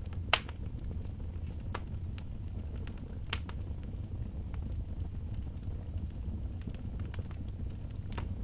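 Wood fire in a fireplace crackling, with a sharp pop about half a second in and smaller ones now and then, over a steady low rumble.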